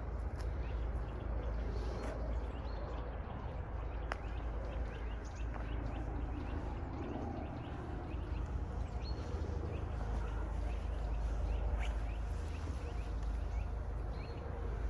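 Outdoor ambience of small birds chirping in short, scattered calls over a steady low rumble.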